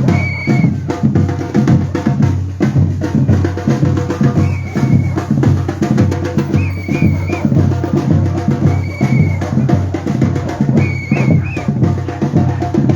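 Batucada drum group playing a fast, steady samba-style rhythm with heavy bass drum strokes, and short high tones recurring every couple of seconds over the drumming.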